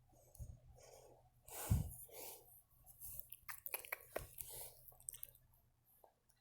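A puppy chewing, with faint wet smacks and quick little clicks, busiest about three to four and a half seconds in. There is one louder bump just under two seconds in.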